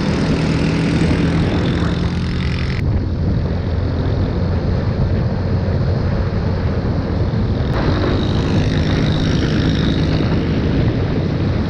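Motorbike engine running steadily under way, with a dense rushing wind-and-road noise; the sound changes abruptly about three seconds in and again near eight seconds.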